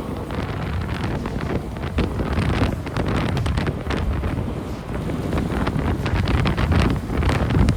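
Car driving through a flooded street: a steady low rumble with water splashing and wind buffeting the microphone.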